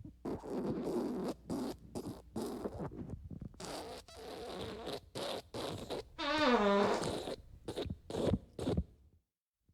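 Fart sound effects: a run of raspy, sputtering farts of varying length in quick succession. About six seconds in comes a longer tonal one that falls in pitch, followed by a few short blasts.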